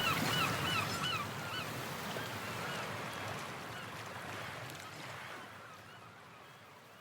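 A flock of birds calling in quick, repeated honking calls over a steady wash of noise. The calls are thickest at the start and thin out, and everything fades out steadily toward the end.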